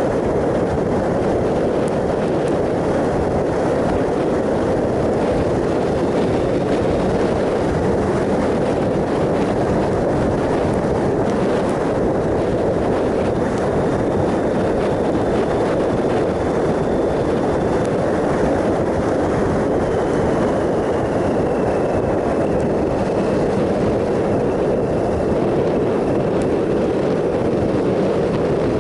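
A 2007 Triumph Sprint ST 1050's inline three-cylinder engine running at a steady cruise, mixed with a constant rush of wind and road noise.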